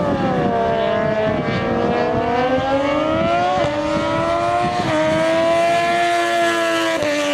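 Racing superbike engine at high revs, the pitch sagging and then climbing as it accelerates, with three sharp drops in pitch as it changes up a gear.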